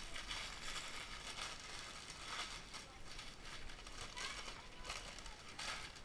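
Quiet rustling and crinkling of food packages being handled and gathered, with irregular light knocks and taps.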